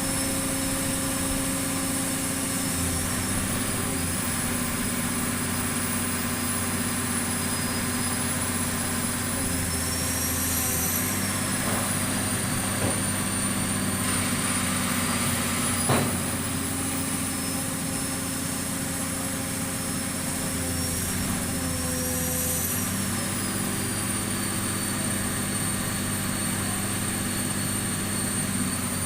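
Pile-driving machine's engine running steadily, with a high whine that rises and dips in pitch now and then. A single sharp knock comes about sixteen seconds in.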